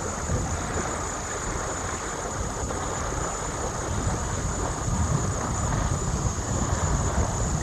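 Steady wind rush and wind buffeting the microphone aboard a sailboat under way.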